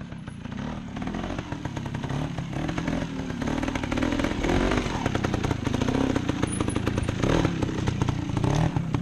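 Trials motorcycle engine running with repeated throttle blips as the bike is ridden up over rocks. It grows louder over the first few seconds.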